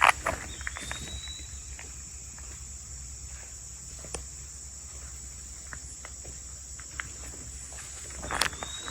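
A steady high-pitched insect chorus with scattered light footsteps on the forest floor. An eastern wood-pewee gives a short slurred whistle twice, about half a second in and again near the end.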